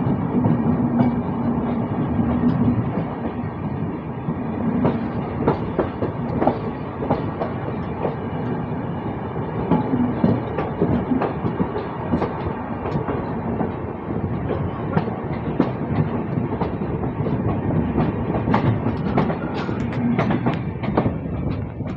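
An express train's coaches running past close by on the next track while the recording train also moves: steady rumble and rush of wheels on rail, with irregular sharp clacks of wheels over rail joints that come thicker near the end.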